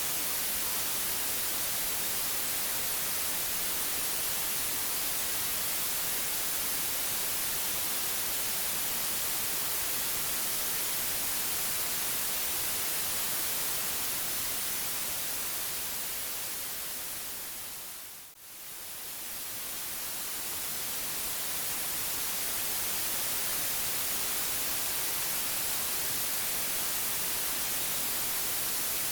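Steady white noise: an even, bright hiss. About two-thirds of the way through it fades down briefly and swells back up to full level.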